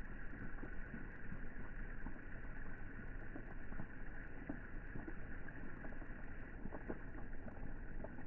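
Rain falling onto the water of a swimming pool: a steady patter of many small drops, with scattered individual plinks over an even wash of noise.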